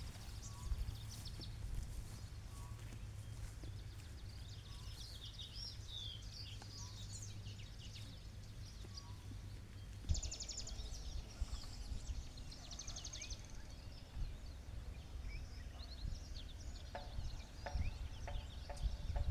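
Outdoor ambience of small birds chirping and twittering, with a couple of quick buzzy trills a little past the middle, over a steady low rumble of wind or background noise. A few light ticks near the end.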